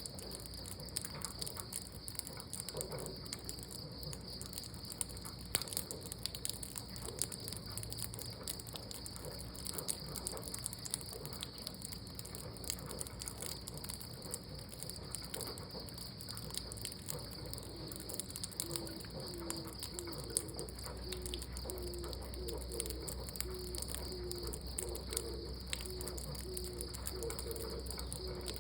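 Crickets chirring steadily, with scattered light clicks and ticks. From about two-thirds of the way in, a low call of short notes repeats about once a second.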